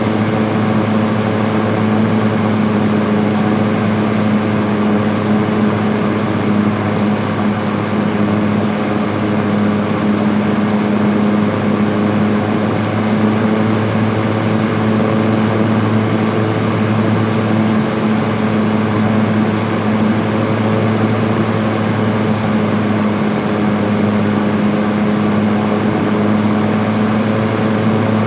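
Electric fan running steadily on its high setting: an even whoosh of moving air over a steady motor hum.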